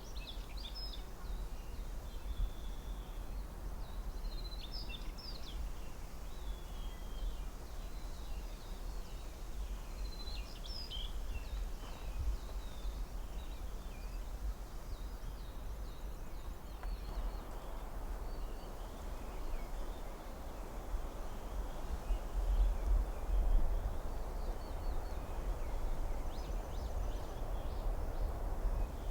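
Forest ambience: scattered short, high bird chirps through the first half over a constant low rumble, then from a little past halfway a rushing sound of wind through the trees swells up and stays.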